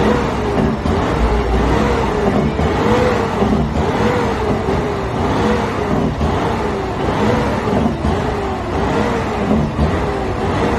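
Truck engine running loud, with a tone that wavers up and down regularly about once a second.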